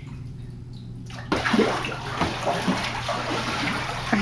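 Floodwater splashing and sloshing in a flooded basement. It starts suddenly about a second in and carries on, over a low steady hum.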